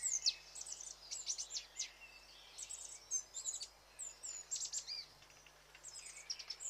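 Small songbird chirping: very high, thin notes, many sweeping downward, in quick clusters that repeat every second or so, over a faint steady hiss.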